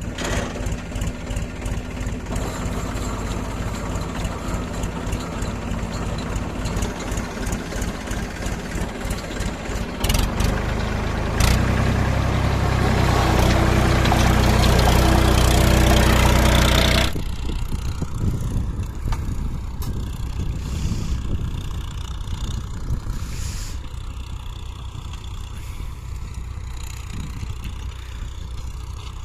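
Massey Ferguson tractor's diesel engine running under load while working a rotavator. It grows louder about ten seconds in, then the sound changes abruptly and drops back a little past halfway.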